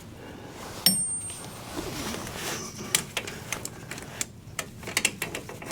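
Scattered metal clicks and light clinks from pliers working a spring hose clip along a hose, with one sharp ringing metallic ping about a second in.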